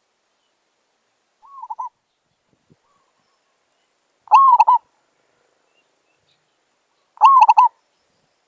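Zebra dove (merbok) cooing: three short, rapid stuttering coos a few seconds apart, the first fainter than the other two.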